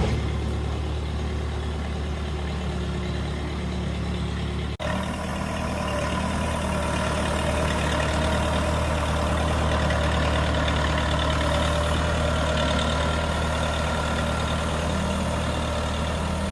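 Tractor engine running steadily while working the backhoe. There is a momentary break about five seconds in, after which it runs a little louder.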